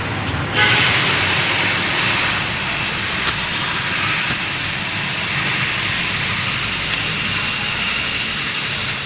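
A loud, steady hiss that starts suddenly about half a second in and cuts off near the end, over a low rumble.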